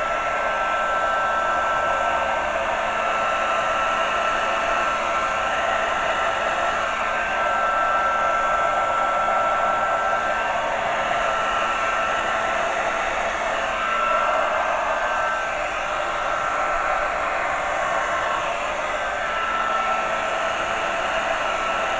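Hair dryer switched on and running steadily, blowing poured acrylic paint across a canvas in a Dutch pour. It starts abruptly with an even whoosh of air and a faint high whine over it.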